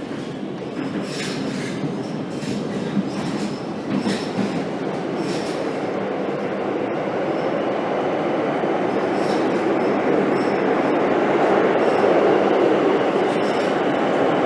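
Madrid Metro Line 8 train running on the rails, its rumble and hiss growing steadily louder as it gathers speed. Sharp clicks from the wheels over the track come through in the first few seconds.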